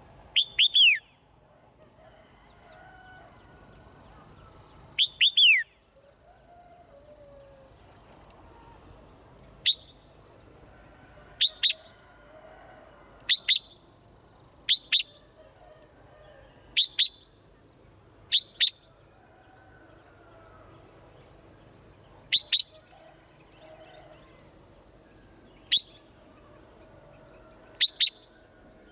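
Swallows calling: short, sharp, high chirps, mostly in quick pairs every second or two, with two longer runs of falling chirps in the first few seconds. A steady high hiss runs underneath.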